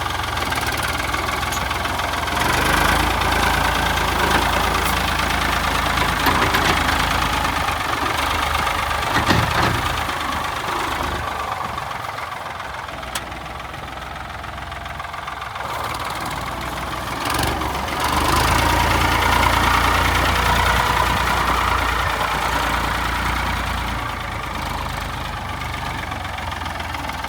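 Ford 3930 tractor's three-cylinder diesel engine running at idle, its sound growing louder and easing off a couple of times.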